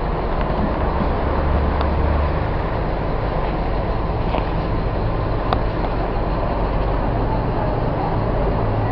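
Mercedes-Benz OF-1722M bus diesel engine running steadily. Its low drone shifts a little in pitch as engine speed changes, with a single faint click in the middle.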